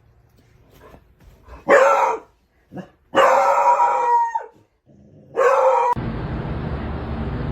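A dog gives three loud calls: a short one, a long drawn-out one whose pitch falls away at the end, and another short one. About six seconds in, a steady rushing noise takes over.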